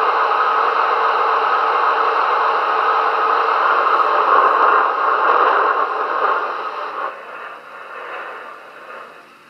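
Diesel engine sound effect from the small speakers of a Märklin VT 11.5 (class 601) model train, a steady hissing engine noise. It fades in steps from about six seconds in and cuts off sharply at the end, as the engine sound shuts down.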